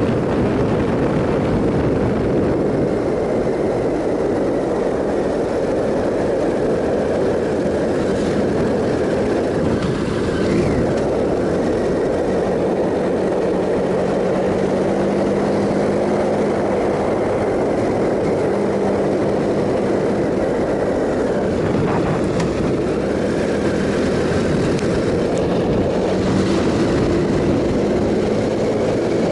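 Triumph Sprint ST 1050's three-cylinder engine running at a steady cruise under heavy wind rush on the microphone, with a faint steady engine note showing through from about halfway in.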